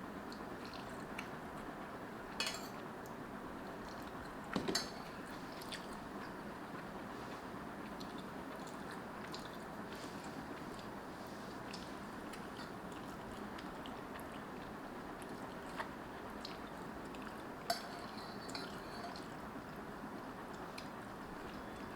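Someone eating spicy instant noodles: soft chewing with a few short clicks of utensils against the bowl, over a steady hiss.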